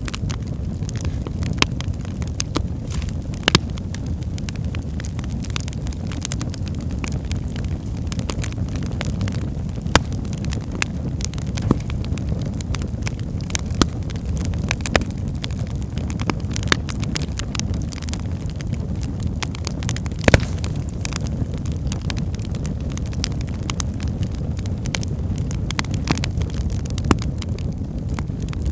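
Wood fire burning in a fireplace: a steady low rumble of flames with frequent irregular crackles and pops from the logs, the loudest pops about ten and twenty seconds in.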